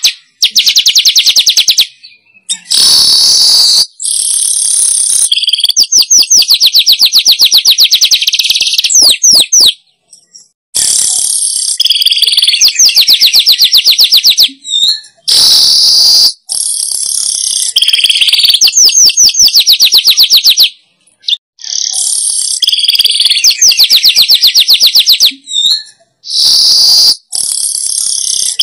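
Weaver bird (manyar) song played as a lure recording: loud phrases of rapid ticking chatter mixed with buzzy, wheezy notes, repeated many times. Each phrase cuts off abruptly into silence before the next one starts.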